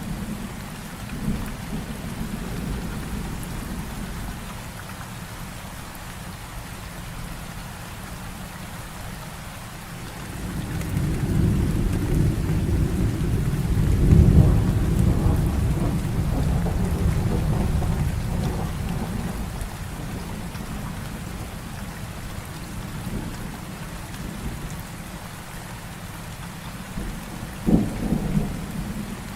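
Heavy rain falling steadily, with a long low roll of thunder that swells about a third of the way in, peaks and dies away over roughly ten seconds, and a shorter sharper rumble near the end.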